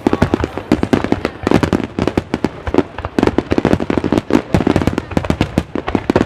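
Fireworks going off in a dense, irregular barrage of sharp bangs and crackles, many a second.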